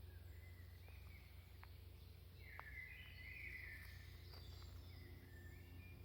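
Faint forest birds singing in short chirping phrases, the clearest phrase about two and a half seconds in, over a steady low rumble.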